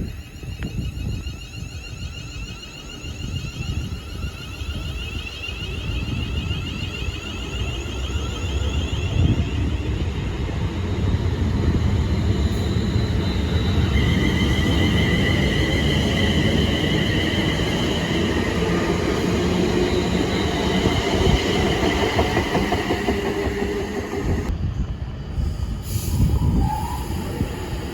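Train running through the station: a low rumble builds over the first ten seconds, then holds steady. About halfway in a high, steady squeal joins it for some ten seconds. The sound drops suddenly near the end.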